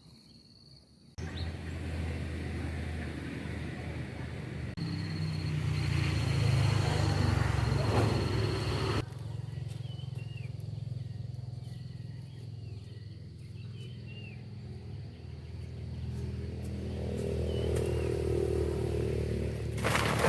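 A small engine or motor running steadily with a low hum, starting suddenly about a second in. Insects trill over it, and birds chirp in the second half.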